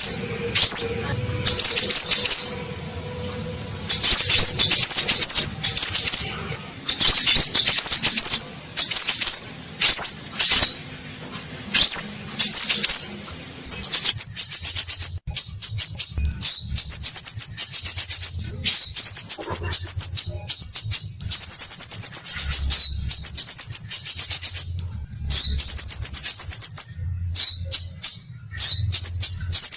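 Scarlet minivet (sepah raja) singing: loud, high-pitched chirping phrases of rapid repeated notes, broken by short pauses at first, then nearly continuous from about halfway.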